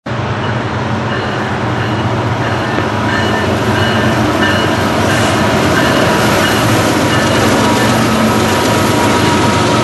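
Norfolk Southern freight train led by EMD SD70ACe diesel-electric locomotives, each with a 16-cylinder two-stroke engine, approaching and passing close by. The locomotive engines and steel wheels on the rails make a steady, loud rumble that grows a little louder as the engines come past.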